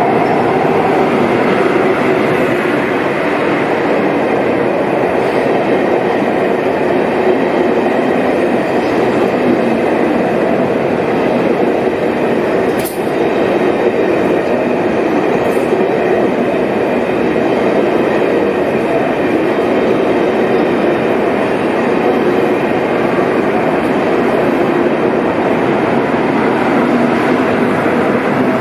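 ICE high-speed train rolling past along the platform: a steady, unbroken rumble and hiss of its wheels and running gear, with one sharp click about 13 seconds in.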